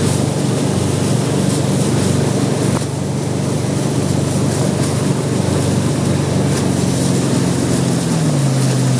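Towboat engine running steadily at speed, with rushing water and wind noise; about eight seconds in the engine note drops.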